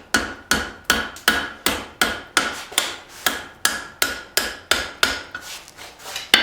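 Blacksmith's hand hammer striking hot leaf-spring steel in a steady rhythm of about three blows a second, each blow ringing briefly, as the curled handle of a knife is reshaped.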